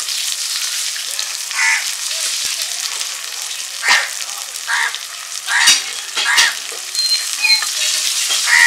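Onions and small taki fish frying in oil in an iron wok, with a steady sizzle. A metal spatula scrapes and stirs against the pan about six times.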